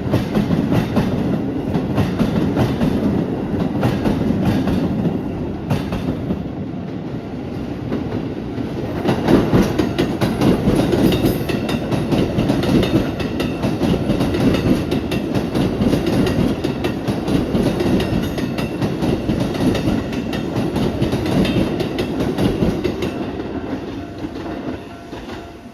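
Keikyu 600 series electric train passing at close range, its wheels clattering over the rail joints in a continuous run of clicks and rumble that dies down near the end.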